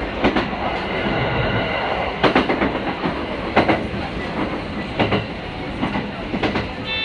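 ET127 series electric train running, its wheels knocking over rail joints about every one and a half seconds over a steady rumble.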